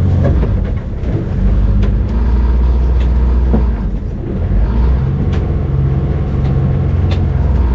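A sailboat's auxiliary engine running hard with a steady low drone, its note shifting about one and a half seconds in and again around five seconds, as it tries to drive the boat off a muddy shoal it has run aground on. A few sharp clicks or knocks come over it.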